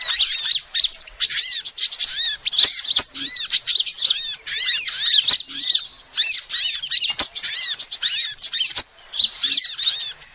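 Female sunbird calling: rapid runs of high-pitched, arching chirps, with short breaks about halfway through and again near the end.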